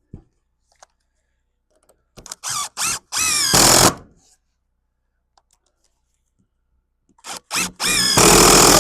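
Power drill run twice, each time in a few short trigger pulses and then a longer run with its motor whine climbing in pitch: about two seconds in, and again about seven seconds in.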